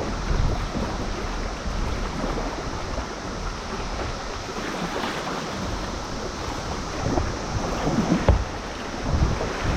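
River water rushing and splashing around a kayak, with wind buffeting the microphone in low rumbling gusts that get stronger near the end.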